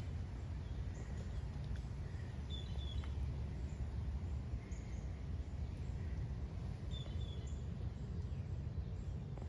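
Outdoor garden ambience: a steady low rumble with faint, brief bird chirps a few times, a few seconds apart.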